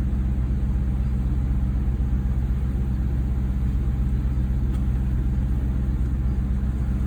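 Off-road 4x4's engine running steadily, a constant low drone with no change in revs.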